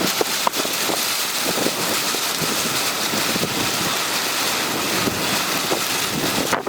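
Steady rush of storm wind from the typhoon, buffeting the microphone, with a few faint knocks near the start.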